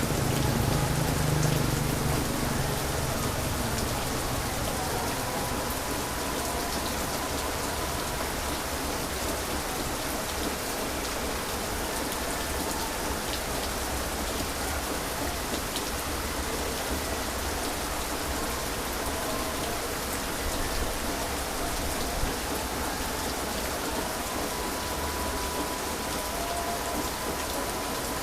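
Heavy rain falling steadily, with a low rumble swelling in the first couple of seconds.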